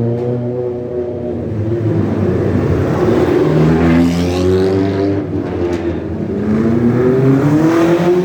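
Sports car engines accelerating past, the engine note climbing in pitch twice as the cars pull away.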